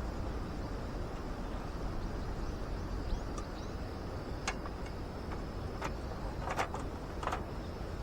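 Steady low background rumble with a handful of sharp, light clicks or taps in the second half.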